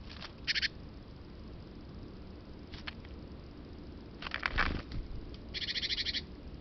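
Small birds calling with short chirps, then a fast rattling call near the end, with a brief flurry of wing flaps or scuffling about two thirds of the way through, over a trail camera microphone's faint hiss.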